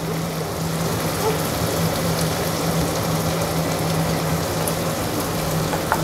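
Chicken pieces frying in a stainless steel kadai with the liquid boiled down to dry: a steady sizzling hiss, with a low steady hum beneath.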